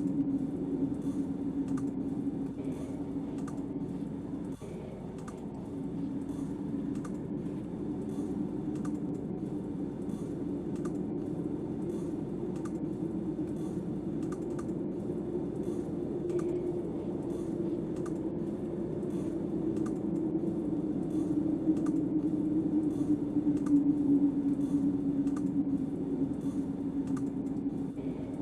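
Snowstorm wind blowing steadily with a low, wavering howl, over a faint, regular clicking about twice a second.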